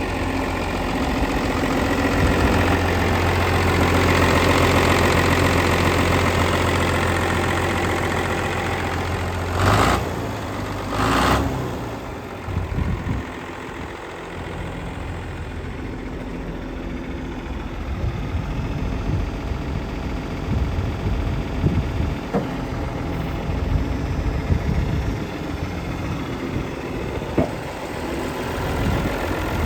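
John Deere 4030 tractor's six-cylinder diesel engine running, a little louder for the first several seconds, then settling back to a lower, steady idle. Two short loud bursts come about ten seconds in.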